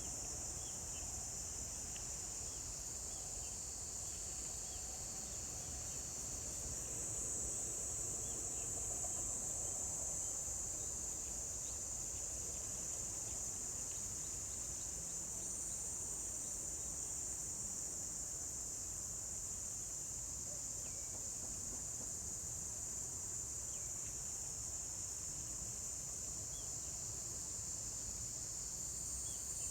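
Insects singing in a continuous, steady, high-pitched chorus, with a few fainter separate chirps lower down.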